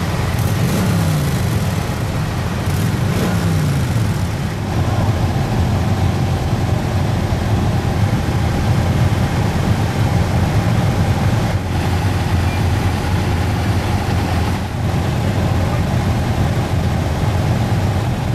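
A group of motorcycle engines idling together in a steady low rumble, with an engine revved and dropping back in pitch twice in the first few seconds.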